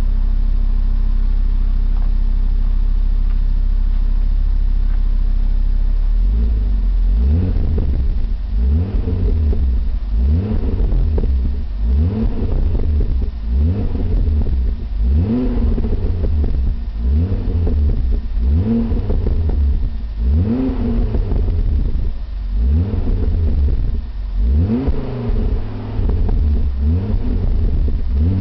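Car engine breathing through a Milltek aftermarket exhaust, idling steadily for about six seconds, then revved in quick repeated blips, each rising and dropping back, roughly one a second.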